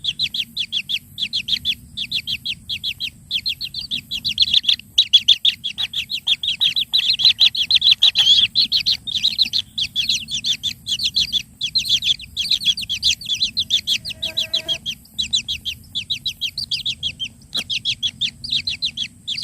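A bird chirping rapidly and without pause, several short high chirps a second, with a brief lower call about three-quarters of the way through.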